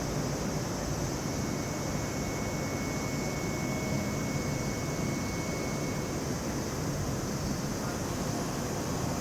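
Steady rumble of passing road traffic, with a faint high whine for a few seconds.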